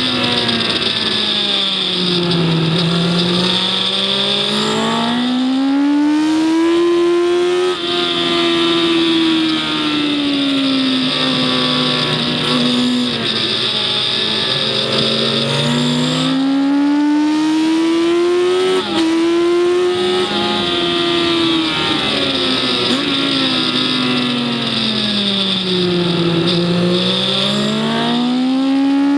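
Onboard engine sound of a vehicle lapping a race circuit, the revs sinking and climbing in long sweeps as it brakes and accelerates, with a few abrupt steps in pitch at gear changes, over steady wind and road noise.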